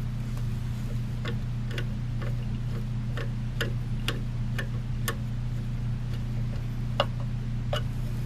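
Irregular light clicks from a screwdriver working the screws of a ceiling fan's switch housing, roughly one or two a second with a pause before a louder click about seven seconds in, over a steady low electrical hum.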